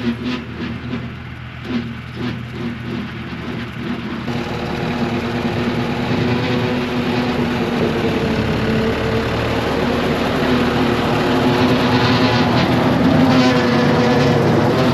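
John Deere tractor's engine running steadily while it drives a Kodak bush hog (rotary cutter) mowing pasture. It gets louder about four seconds in.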